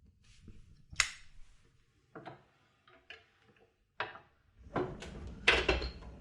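Vent-free gas fireplace insert being lit: a series of sharp clicks about a second apart, then a steady low rush sets in about four and a half seconds in, with one more loud click on top of it.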